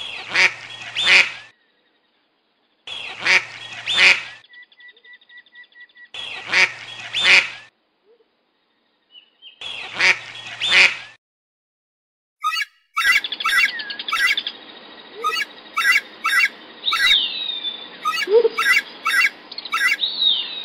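Duck quacking, in four double quacks a few seconds apart, with faint high peeping between two of them. About thirteen seconds in, the sound changes to a different bird's quick high chirps and falling screechy cries over a steady hiss.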